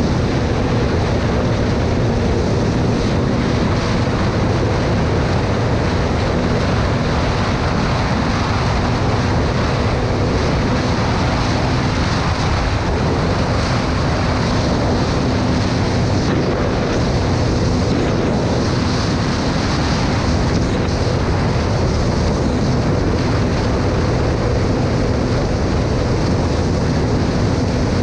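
Motorcycle riding at a steady speed: loud, constant wind rush over the microphone with a steady engine drone underneath that holds one pitch throughout.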